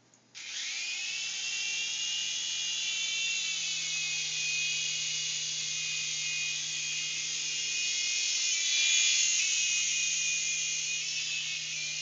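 V268 toy RC helicopter's small electric motors and rotors spinning up about half a second in with a quickly rising whine, then running with a steady high whine as it flies. The whine gets briefly louder near nine seconds.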